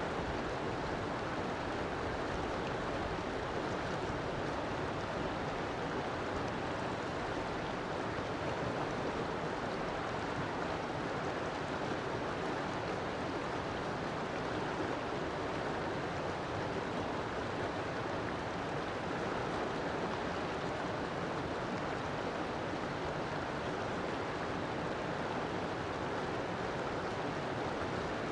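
River water flowing and rushing steadily, an even unbroken wash of water noise.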